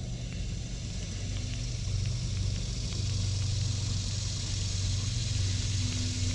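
River water rushing over a shallow rocky rapid, a steady hiss that grows a little louder after about two seconds, over a steady low rumble.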